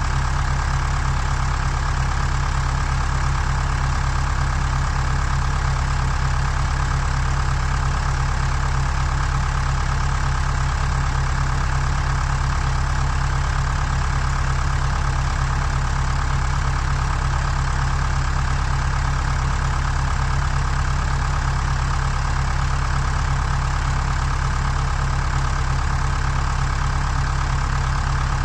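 Skid steer engine running steadily at a constant speed, a low, even drone with no changes.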